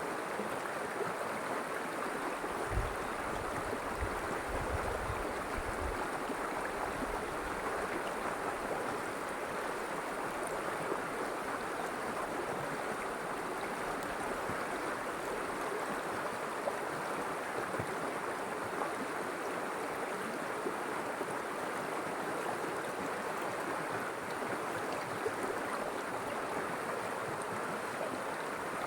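River water flowing in a steady, even rush. A few brief low rumbles come in about three to six seconds in.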